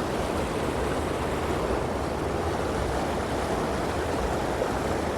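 Waterfall, water rushing and splashing steadily.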